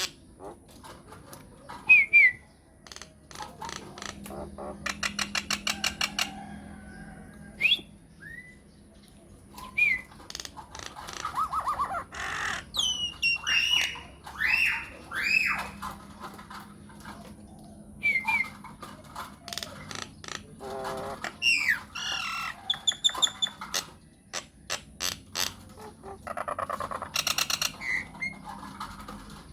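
Myna calls in quick succession: sharp gliding whistles, harsh chattering and rapid rattling click trains.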